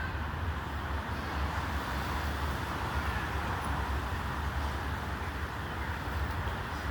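Steady outdoor background noise: a low rumble with an even hiss above it, with no distinct event.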